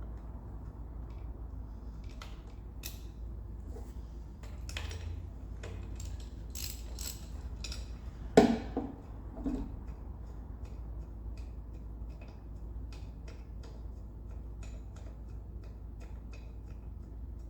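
Socket ratchet clicking in short runs as bolts are undone, with one loud metal clunk and a couple of lighter knocks a little under halfway through.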